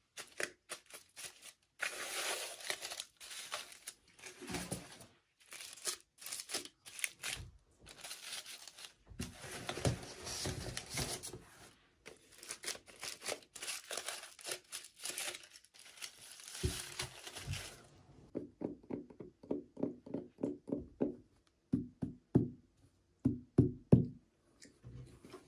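Plastic packaging crinkling and tearing as it is opened by hand. About two thirds of the way through, this gives way to a run of quick, light knocks and clicks, like small plastic pieces being handled.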